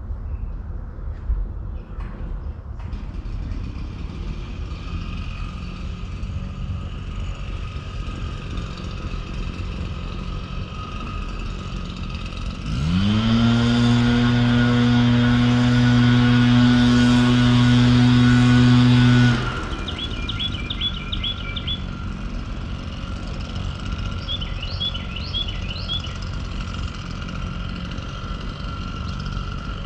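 Outdoor ambience with a steady low rumble. About thirteen seconds in, a motor runs up in pitch, holds a steady hum for about six seconds, then cuts off abruptly. Birds chirp in the second half.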